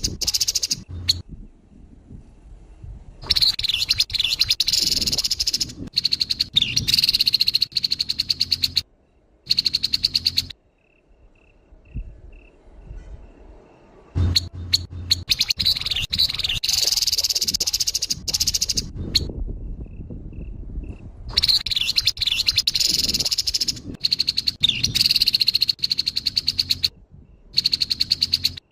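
Grey-headed babbler (tepus kepala abu) giving harsh, rapid rattling calls in phrases of a few seconds each, broken by short pauses.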